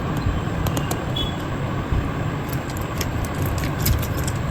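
A steady low rumble of background noise, with a few light clicks of small parts and tools being handled on the bench.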